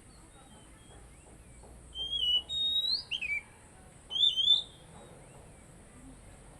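Oriental magpie-robin singing: two loud whistled phrases, about two and four seconds in, each sliding up and down in pitch.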